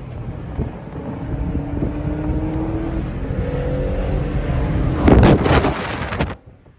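Car engine accelerating hard, its pitch climbing steadily and jumping higher about three seconds in, with wind noise. A loud rush comes about five seconds in, and the sound cuts off suddenly just before the end.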